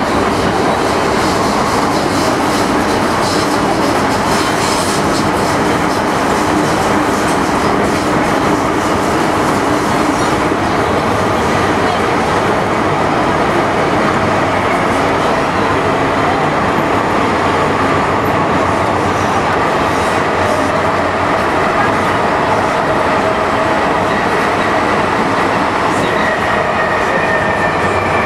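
MTR Tsuen Wan Line M-Train running on the line, a steady loud rumble of wheels and track. A faint whine slides slightly down in pitch near the end.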